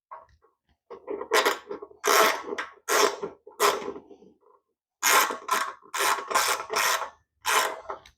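Short mechanical rasping strokes from hand work on the snow blower during reassembly, in two runs: about four strokes, a second's pause, then about five more.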